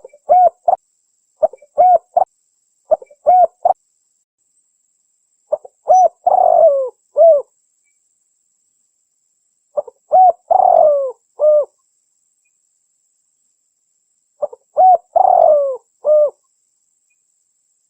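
Spotted dove (tekukur) cooing in repeated phrases. Near the start come three short two-note coos about a second and a half apart. Then three longer phrases follow about every four and a half seconds, each with a rough, drawn-out middle note.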